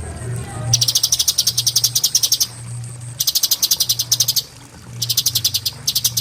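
Cucak cungkok singing its 'tembakan' phrases: rapid-fire trills of sharp, evenly repeated high notes, about thirteen a second, in four runs, the first and longest lasting nearly two seconds. A faint steady high tone and a low hum run underneath.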